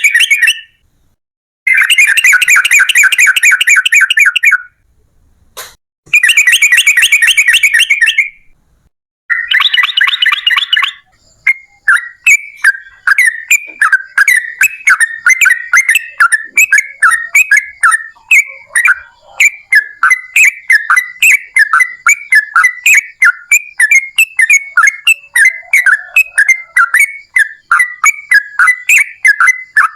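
Yellow-vented bulbul singing its long, bubbling chatter. There are four quick, dense bursts with short silent gaps in the first ten seconds or so. Then it runs on as an unbroken string of rapid repeated chirps.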